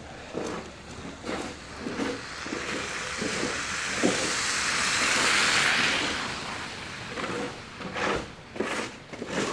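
A car passing on a wet, slushy street: tyre hiss swells, peaks about halfway through and fades away. Footsteps tread through snow at a steady walking pace, about two a second.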